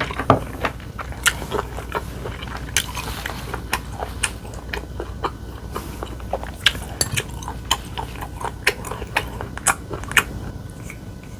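A person chewing food close to the microphone, with many sharp, irregular mouth clicks, a few a second.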